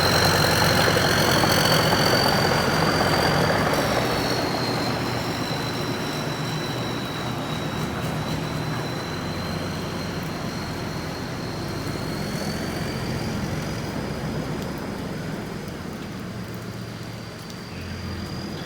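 Rice combine harvester's engine running steadily, with a high, steady whine over the rumble; the sound fades gradually.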